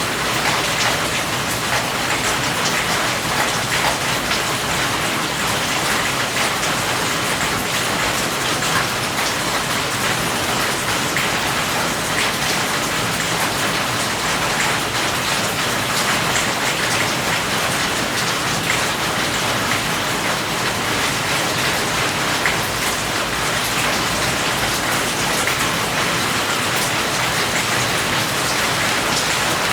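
Steady rain falling, a dense even hiss with fine drop patter on a hard surface.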